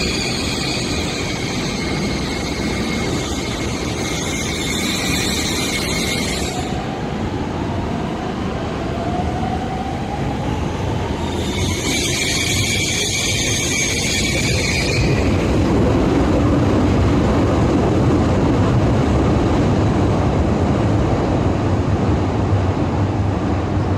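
Electric multiple-unit commuter trains at a station platform. A rising motor whine and two spells of high-pitched wheel squeal are heard, and in the second half a train's rumble grows louder as it pulls in.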